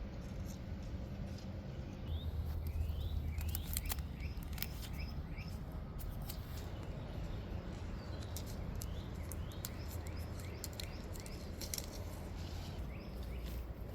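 Scissors snipping and reflective tape crinkling and clicking as it is cut and fixed, a run of sharp clicks, with small birds chirping in short falling notes in the background.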